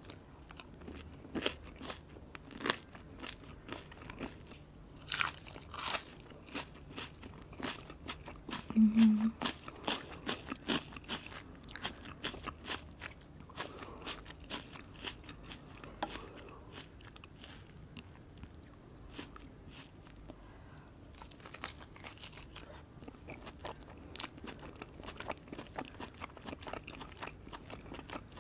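Close-miked chewing and crunching of fried food, shoestring fries and grilled chicken chop, with many short crisp crunches and mouth clicks. A brief low hum about nine seconds in is the loudest sound.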